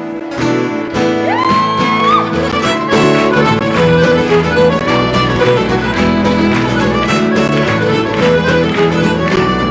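Instrumental introduction of a folk song played by a small acoustic band: a fiddle carries the tune over strummed acoustic guitar and bass, with a note sliding up into a held tone about a second in.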